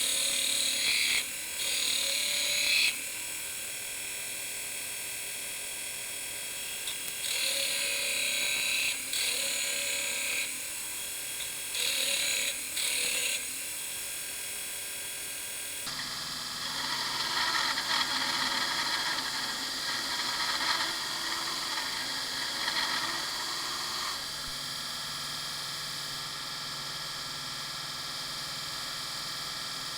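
Homemade 4x50-inch belt grinder running with a steady motor tone. It grinds in short spells of one to two seconds three times in the first half, then in a longer, rougher spell of about eight seconds in the middle.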